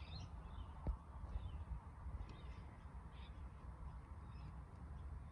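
Faint birds calling in the distance, a string of short calls, over a low steady background hum, with a single soft click about a second in.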